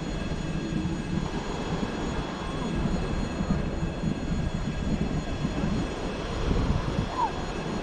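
Low, steady rumble of a train approaching in the distance, hauled by a 2ES4K Donchak twin-section electric locomotive. A short, high squeal comes near the end.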